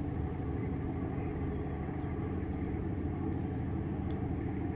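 Steady low engine rumble, like a motor idling, running evenly without change.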